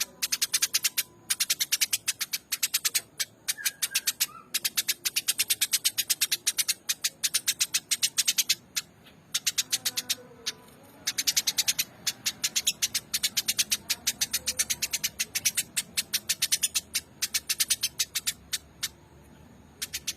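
Eurasian tree sparrow chirping in fast, chattering runs of a second or two, with short breaks between runs.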